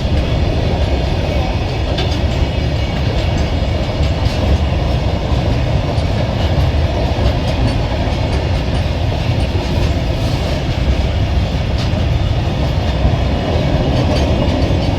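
Goods train rolling along the track: a steady, loud, heavy rumble of wheels on rails with faint scattered clicks.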